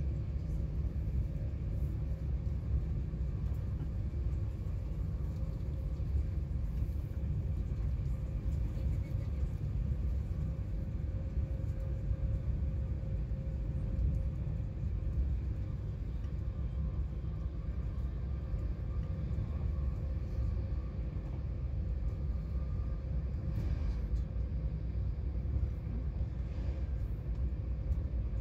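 Steady low rumble of an Avanti West Coast train running on the rails, heard from inside the passenger cabin, with a faint steady hum running through it.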